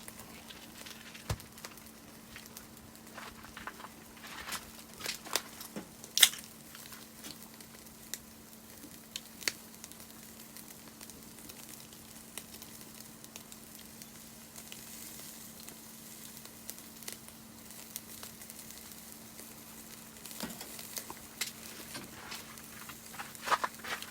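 Food sizzling in a pan over a wood fire: a soft steady hiss broken by scattered sharp pops and crackles.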